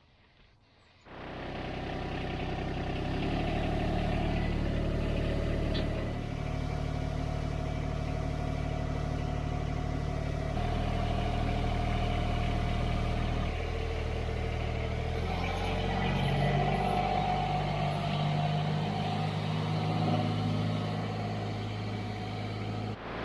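Subcompact tractor's diesel engine running, starting about a second in, its engine speed changing several times.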